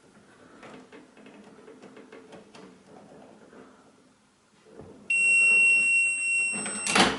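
Multimeter continuity beeper sounding one steady high beep for about two seconds, showing a closed circuit through the part under test, here the microwave's door microswitches. It stops at a short knock, after faint handling sounds.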